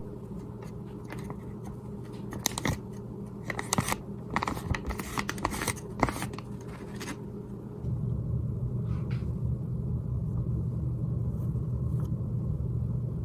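Scattered light clicks and scraping over a low background hum, then a steadier, louder low hum comes in about eight seconds in.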